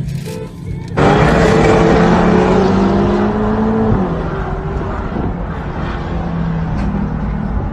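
Car engine pulling hard at high revs, heard from inside the cabin under a loud rushing noise; it starts abruptly about a second in, its pitch rises steadily for about three seconds, then drops and settles lower.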